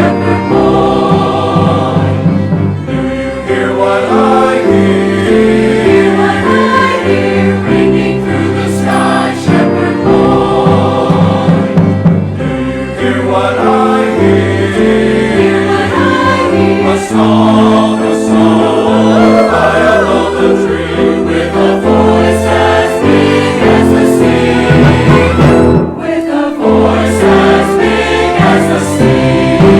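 Church choir singing with orchestral accompaniment, a sustained full-voiced choral passage with changing chords and a steady bass line.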